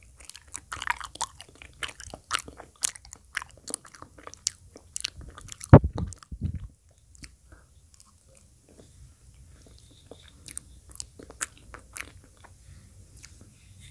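Close-miked chewing with wet mouth clicks and smacks, dense for the first half with a loud low thump about six seconds in, then sparser clicks.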